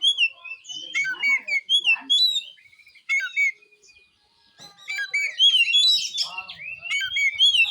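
Oriental magpie-robin (kacer) singing a run of varied, loud whistled notes that swoop up and down. The song breaks off for about a second around the middle, then starts again.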